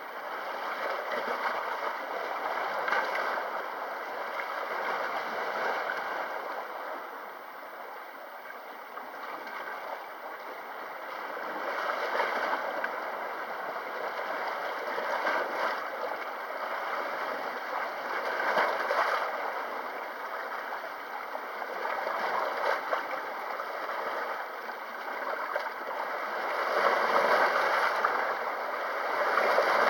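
Sea waves washing ashore, a continuous rushing that swells and falls back every few seconds, with the strongest surge near the end.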